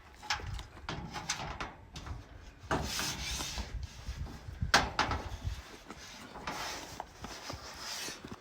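Irregular knocks, clicks and scraping as a solar panel and its metal mounting hardware are handled and fitted on a ground-mount rack. The sharpest knock comes a little before five seconds in, with rubbing around three seconds and again near seven seconds.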